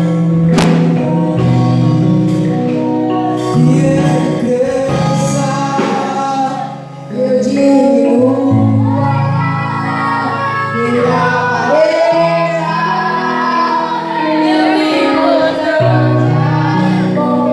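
Gospel hymn sung by women's voices over instrumental accompaniment with a held, stepwise bass line.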